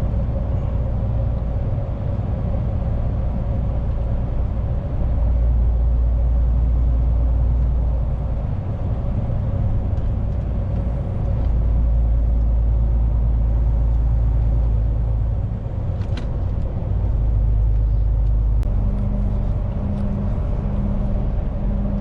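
Truck's diesel engine and road noise heard from inside the cab while driving: a steady low rumble with a constant hum. Near the end a soft low tone starts pulsing about one and a half times a second.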